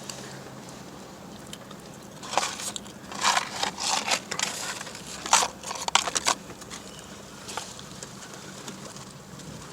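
Crinkling and rustling of paper fast-food packaging, in a run of short crackly bursts from about two seconds in to about six seconds in, over a low steady hum.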